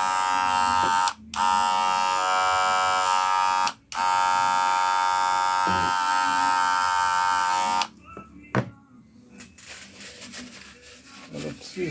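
Wahl Senior electric hair clipper running with a steady buzz, cut off briefly twice and switched off about eight seconds in, followed by a click. The repairer says the noise is not normal and puts it down to a worn blade.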